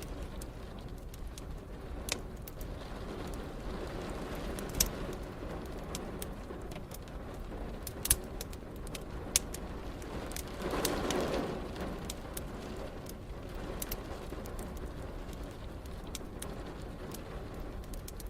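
Wood fire crackling with occasional sharp pops over a steady bed of rain. About eleven seconds in comes a brief low swell that rises and fades over a second or two.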